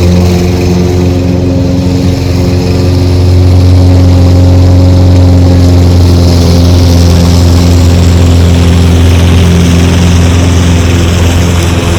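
Toro Recycler self-propelled gas push mower's engine running steadily and loud, close by, a little louder from about four seconds in.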